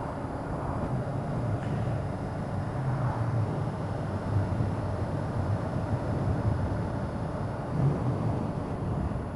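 Honda CBR sport motorcycle engine running steadily at cruise while riding, under a steady rush of wind and road noise.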